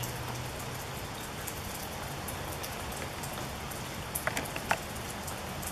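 Steady rain falling, with individual drops ticking on nearby surfaces. Two or three short, sharp sounds come about four seconds in.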